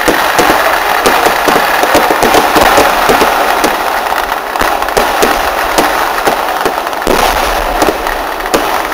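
A festival fireworks barrage: a dense, unbroken run of rapid overlapping cracks and bangs. A heavier, deeper booming comes in about seven seconds in.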